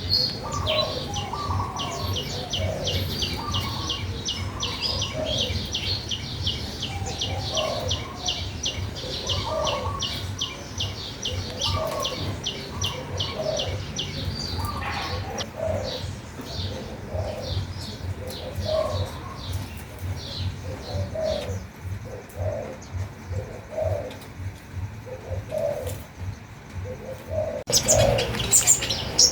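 Several birds singing together: a fast series of short high chirps, about three a second, over lower calls repeated about once a second. The high chirps thin out about halfway through, and the singing grows louder near the end.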